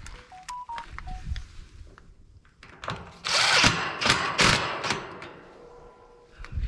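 Handheld power tool running in two short loud bursts a little past the middle, driving or working on the unit's fasteners. A few short beeps at different pitches sound near the start.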